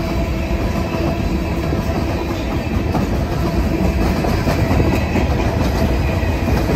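Freight cars (covered hoppers and gondolas) rolling past close by: a steady rumble of steel wheels on rail, with some clickety-clack of wheels over the rail joints.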